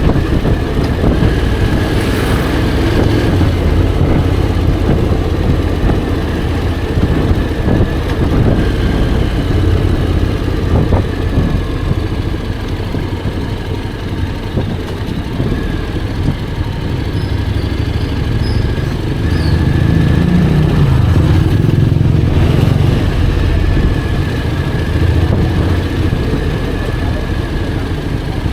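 Honda X-ADV 750's parallel-twin engine running on the move, with wind and road noise. The engine note grows louder for a few seconds about two-thirds of the way through.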